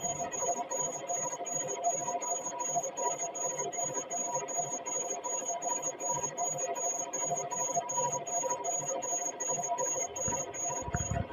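A machine tool running: a high steady whine pulsing about three times a second over lower steady tones, with a couple of low thuds near the end.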